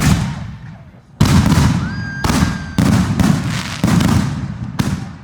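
Consumer aerial fireworks going off in quick succession: a string of loud booms about a second apart, each dying away over a moment.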